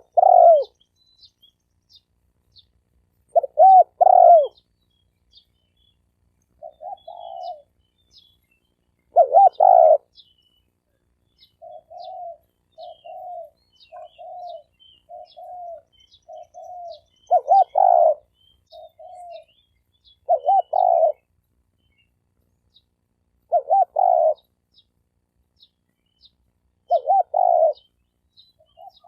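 Spotted dove decoy calls: loud multi-note crowing coos every few seconds, with a run of soft, short cooing notes in the middle. Faint high chirping ticks sound throughout.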